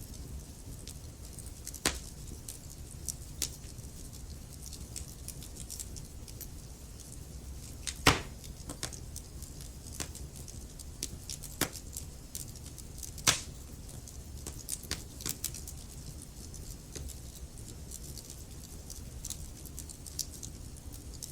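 Wood fire burning in a fireplace: a steady low rumble of the flames with scattered sharp crackles and pops from the logs, the loudest pops about 2, 8 and 13 seconds in.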